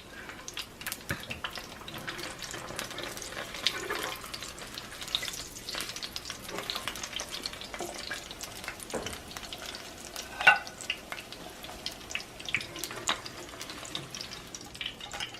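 Corn tortillas frying in hot oil in a pan: a steady sizzle full of small crackles and pops of spattering oil.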